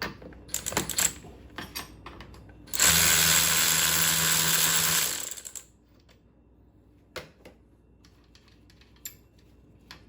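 Light clicks of metal tools on a nut, then a handheld power tool runs steadily for about two and a half seconds and winds down, spinning a nut off a hydraulic trim ram bolt.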